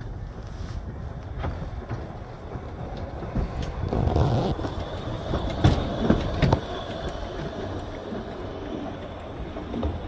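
Narrow-gauge train running along the track, a steady rumble with wheel clicks on the rails. It grows louder about four seconds in, with three sharp clacks around the six-second mark.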